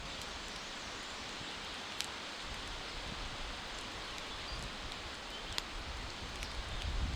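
Woodland outdoor ambience: a steady, even hiss with a few faint, short ticks.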